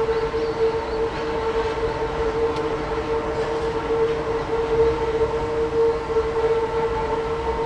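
Hakone Tozan Railway train running on the mountain line: a steady high-pitched squeal held throughout over a low running rumble.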